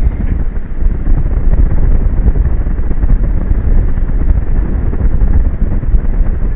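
Strong wind buffeting the microphone: a loud, steady, gusting rumble.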